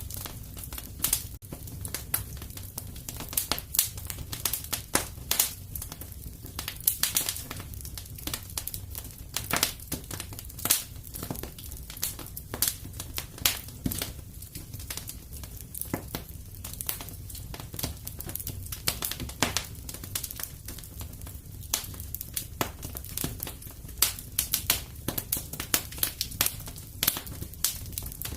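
Wood fire in a fireplace crackling, with irregular sharp pops and snaps several times a second over a low, steady rumble of the flames.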